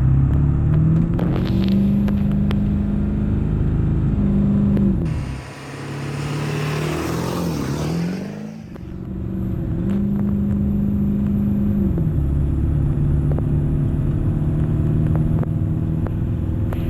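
A straight-piped 1996 Ford 7.3 Power Stroke diesel accelerating at full throttle under a heavy towing load. The engine note climbs and then drops at each automatic upshift, and the shifts come a few seconds apart.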